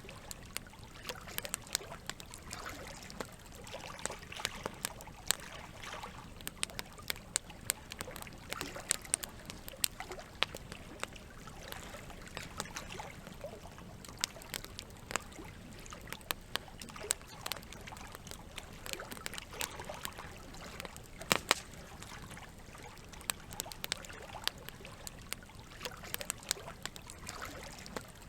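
Wood fire crackling, with frequent irregular sharp pops and a few louder snaps about 21 seconds in, over a steady wash of flowing water.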